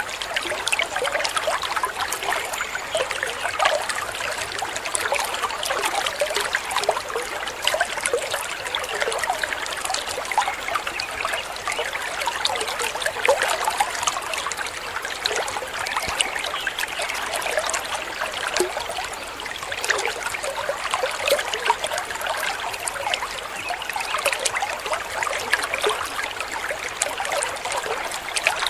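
Small waterfall: water splashing and trickling steadily, a dense, even patter with no deep rumble.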